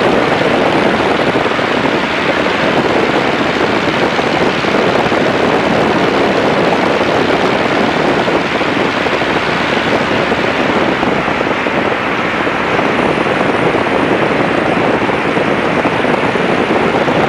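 A Tiger Moth's de Havilland Gipsy Major four-cylinder engine running steadily in flight, mixed with slipstream wind noise in the open cockpit, as a loud, even drone.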